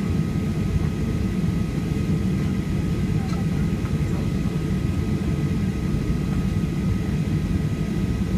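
Cabin noise inside a Boeing 737-800 on the ground before take-off: a steady low rumble from the CFM56 engines at idle and the air system, with a faint steady whine on top.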